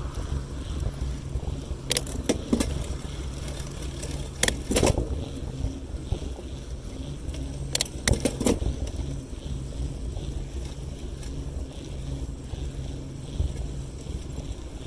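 Wind rumbling on the microphone of a moving bicycle, broken by three short clusters of sharp rattling clicks, about two seconds in, about four and a half seconds in and about eight seconds in.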